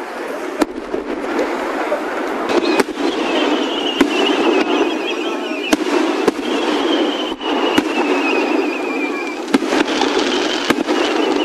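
Fireworks going off: sharp bangs every second or two over a continuous crackle, with a high wavering whistle slowly falling in pitch through the middle.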